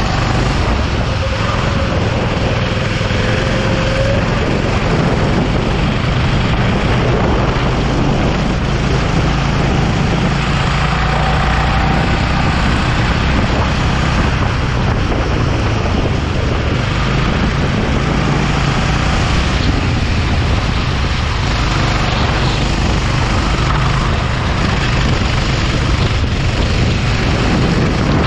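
Go-kart engine running continuously out on track, with a steady rushing noise over it.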